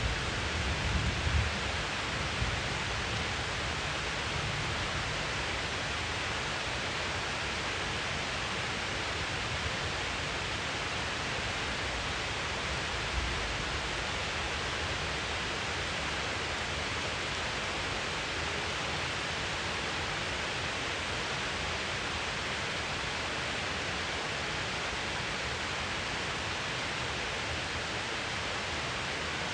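Heavy rain falling in a steady, even hiss, with the low rumble of thunder dying away in the first couple of seconds.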